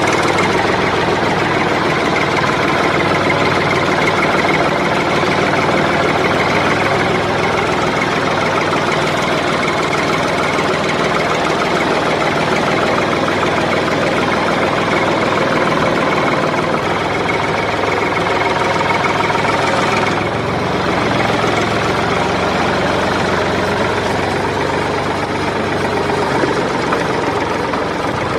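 Engine running steadily without a break, dipping slightly in level about twenty seconds in.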